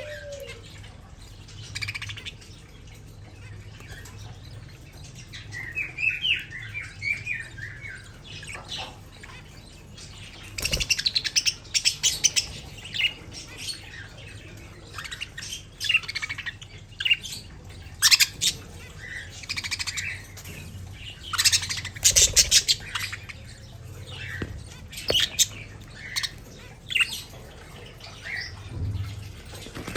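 Pet budgerigars chirping and chattering: a warbling run of wavering notes, then a long stretch of short, sharp chirps and squawks, with the loudest clusters in the middle.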